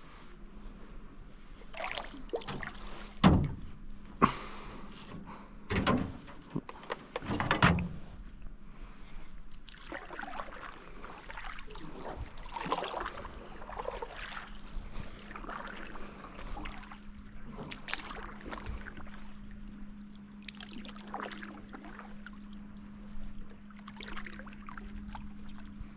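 Canoe being paddled, with water swishing from the strokes. A few sharp knocks come in the first eight seconds, and a steady low hum runs underneath.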